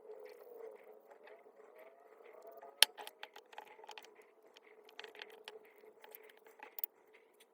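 A run of light clicks and taps from small hard parts being handled, with one sharp click about three seconds in, over a faint steady tone.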